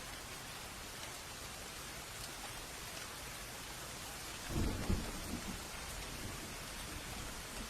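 Steady rain falling, with a low roll of thunder rumbling up about halfway through and fading over a second or so.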